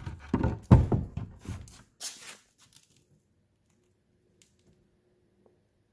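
A run of knocks and scrapes from handling wooden boards for about three seconds, then only a faint steady hum.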